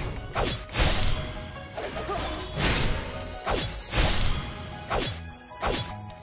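A series of sharp swishing strikes, about nine of them, irregularly spaced half a second to a second apart.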